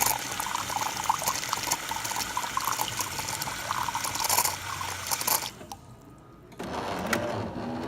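Jura Impressa S9 espresso machine rinsing its frothing system: a steady hissing, sputtering stream of water through the frother that cuts off abruptly about five and a half seconds in. A second, quieter machine sound starts about a second later.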